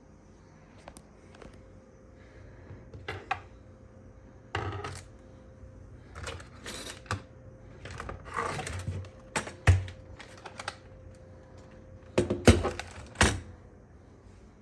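Irregular clicks, clacks and short scraping noises of computer hardware being handled, with the loudest knocks near ten seconds and twelve to thirteen seconds in. A faint steady tone runs under most of it.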